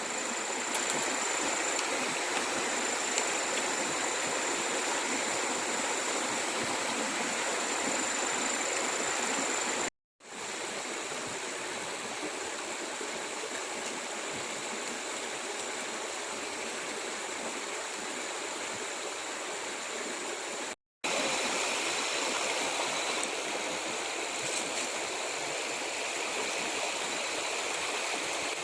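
Running water of a stream, a steady rushing with no pitch to it, dropping out briefly twice, about ten and twenty-one seconds in. A thin, steady high tone sits over it in the first third.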